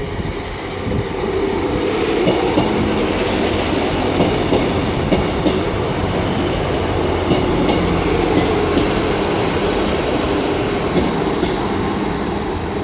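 Class 158 diesel multiple unit running into the platform: a steady rumble of the diesel engines and wheels on the rails, with scattered clicks of the wheels over the track.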